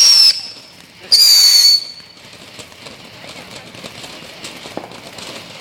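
A consumer firework giving two shrill whistles: a short one at the start and a longer one about a second in, each dipping slightly in pitch.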